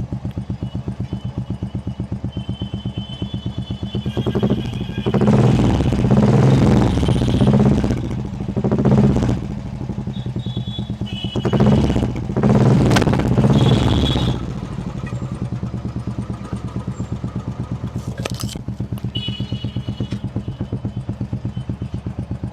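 Royal Enfield Classic 350 single-cylinder engine idling with an even thump, revved up a few times around 5 to 8 seconds in and again around 12 to 14 seconds in, then settling back to idle. No tappet ticking is heard: the hydraulic tappets have just been replaced, and the engine runs quietly like a new bike.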